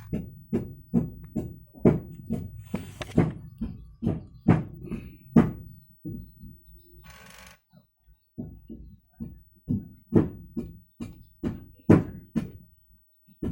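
A run of regular knocks or thuds, about two to three a second, breaking off for a couple of seconds about six seconds in, where a short hiss is heard, before starting again.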